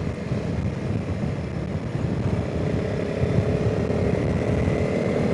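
Honda CRF300 Rally's single-cylinder engine running at a steady note while riding, its new engine being run in, with wind noise over the rider's microphone.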